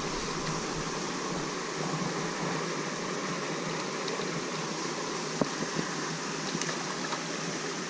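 Creek water running, a steady even rush with a few faint ticks near the end.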